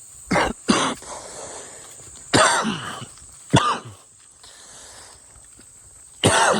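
A man coughing: five separate coughs, two short ones near the start, two more in the middle and one near the end, from a cold he is still getting over.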